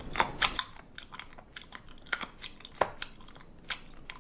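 Close-up chewing of firm raw sea cucumber: a quick run of crisp crunches at the start, then single crunches every second or so as the tough flesh is bitten down.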